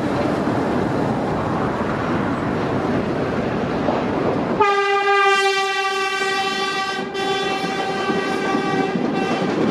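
New York City subway train running along the rails, then about four and a half seconds in its horn sounds one long, steady blast lasting several seconds.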